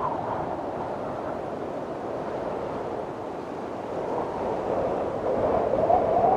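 Strong wind blowing in gusts, a rushing noise with a wavering whistle that rises and falls in pitch. It swells louder near the end.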